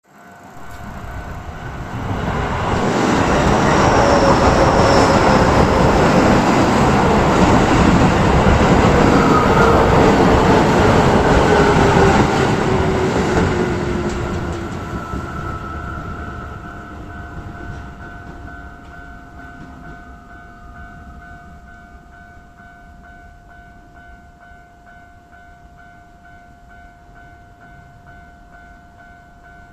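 A Keio Line electric train passes the level crossing, loud from about two seconds in, its motor whine falling steadily in pitch, then fading away after about fourteen seconds. The crossing's warning bell keeps ringing in an even repeating pattern, left on its own once the train has gone, with the crossing staying closed for the next train.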